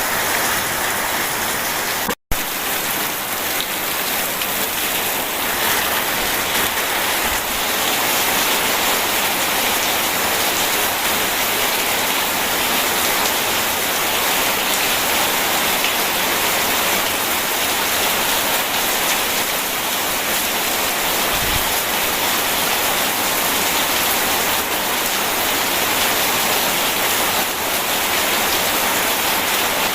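Steady, dense rainfall, an even hiss of drops on surfaces. A split-second dropout cuts the sound out about two seconds in.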